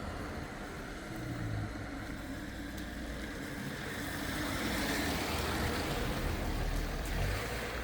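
Street traffic noise: a low vehicle rumble with a rushing haze that swells about halfway through, as of a vehicle passing close by.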